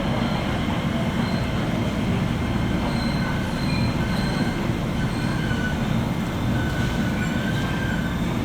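JR West 201 series electric train running, heard inside motor car MoHa 201-193 above its armature-chopper equipment: a steady dense rumble of wheels and running gear, with short faint high-pitched wheel squeals coming and going.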